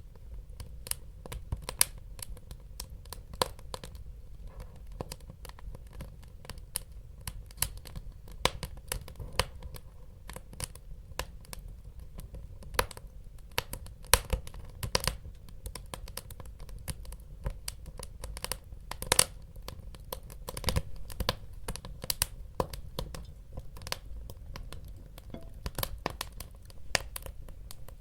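Wood fire burning in a fireplace, crackling and popping irregularly over a low steady rumble of flame, with a few louder pops now and then.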